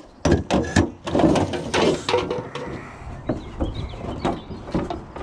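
Pieces of dumped wood and metal being pulled about and dropped, knocking and clattering, busiest in the first two seconds.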